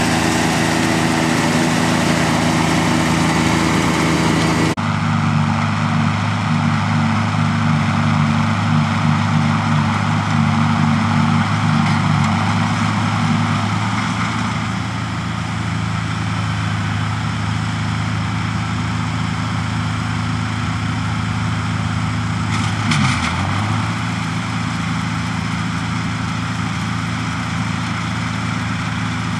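Tractor engine running steadily. The sound changes abruptly about five seconds in, and the engine's pitch briefly drops and comes back up a little before the end.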